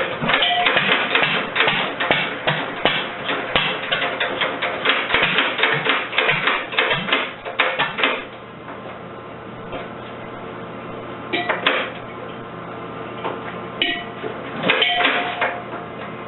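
International Harvester LA single-cylinder stationary engine running with a rapid series of sharp knocks, which stops about eight seconds in. A few short bursts of knocks follow later.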